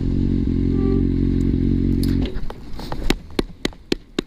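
Motorcycle engine running steadily at low revs, cutting off abruptly about two seconds in, followed by a quick run of about seven sharp clicks and knocks.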